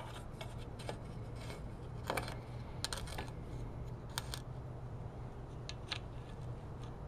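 Scattered light clicks and rattles of air filter parts being handled and fitted onto a riding mower's engine, over a steady low hum.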